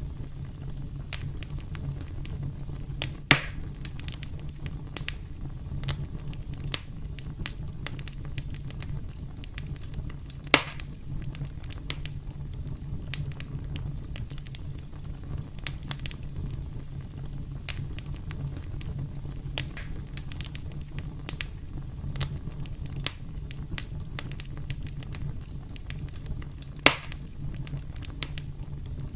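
Campfire crackling: a steady stream of small snaps and ticks over a low steady rumble, with three sharp, louder pops a few seconds in, about ten seconds in, and near the end.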